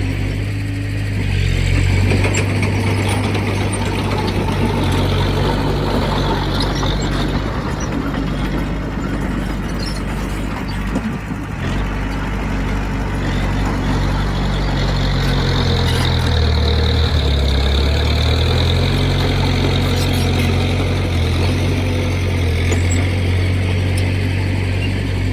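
Heavy diesel engine of earthmoving machinery running steadily, its pitch dropping and then recovering about two-thirds of the way through as the load changes, with continuous mechanical clatter over it.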